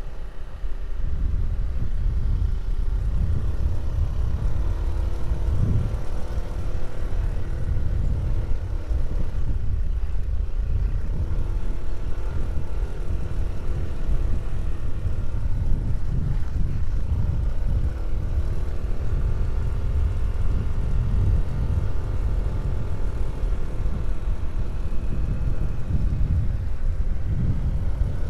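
An engine running steadily over a heavy low rumble, its drone drifting slowly up and down in pitch.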